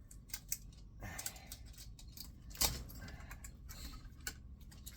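Irregular light clicks and metallic clinks from small metal parts and tools being handled, with one sharper click about two and a half seconds in.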